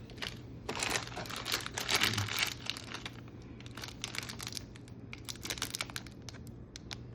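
Crinkling of plastic snack packaging being handled, in irregular crackly bursts that are thickest in the first few seconds and again near the end.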